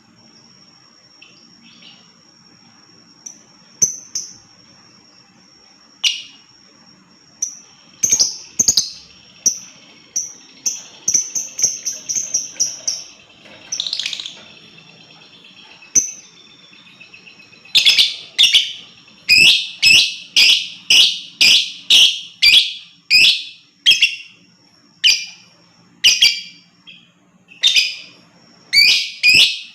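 Lovebird calling: scattered sharp, shrill calls, then a rapid chatter from about 8 to 13 seconds in, and from about 18 seconds in a long run of loud, short shrieks about two a second. A thin steady high tone sounds through the first half.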